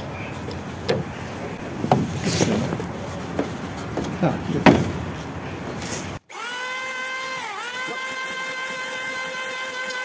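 Rough scraping and rubbing strokes on old oak timber. After a break, an electric sander's motor runs with a steady whine that dips briefly in pitch once.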